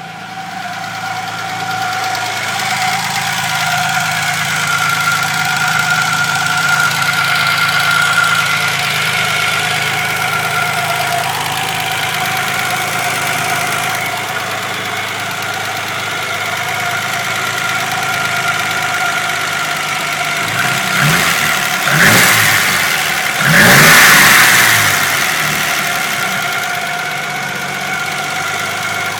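BMW E21 engine running hot with a steady high whine over it, the strange noise the owner hears when it is warm. It is revved twice near the end.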